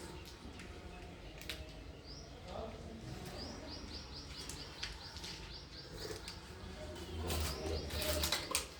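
A small bird chirping in quick runs of short, high, rising chirps, about six a second. A cluster of knocks and clatter comes near the end.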